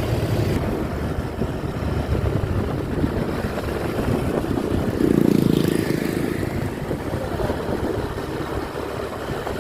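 Truck engine running with a steady low rumble, swelling louder for about a second midway through.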